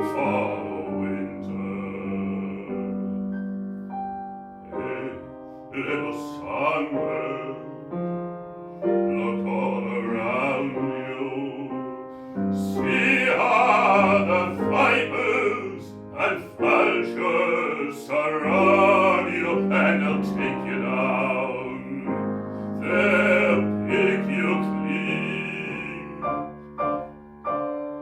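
A man singing with a wide vibrato over piano accompaniment, in a classical, operatic style.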